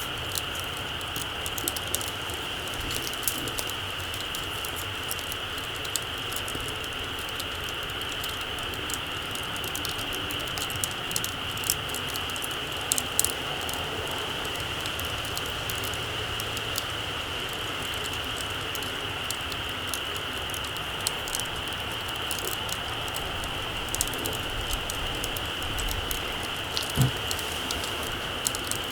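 Small campfire crackling, with frequent light irregular pops and ticks over a steady high hiss.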